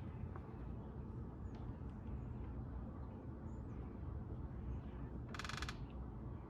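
Outdoor background with a steady low rumble and a few faint, high bird chirps. About five seconds in comes a brief, fast rattling buzz.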